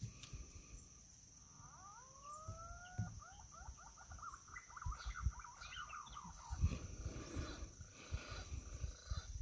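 A bird calling from the trees: a few slow rising whistled notes, then a quick run of short rising notes. A steady thin high whine runs under it, and low handling bumps come in near the end.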